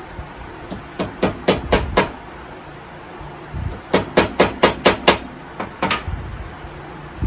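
Hammer tapping a sharp-pointed punch into a Welch plug on a chainsaw carburetor to pop the plug out. It goes as a run of about five quick taps, a pause, then about six more, with a couple of lighter taps after.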